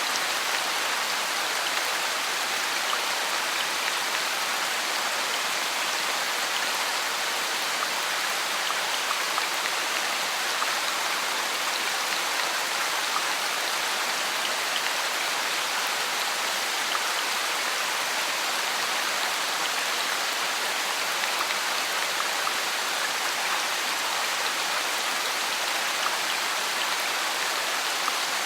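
Steady rain falling, a dense even hiss of drops with small scattered patters on a surface.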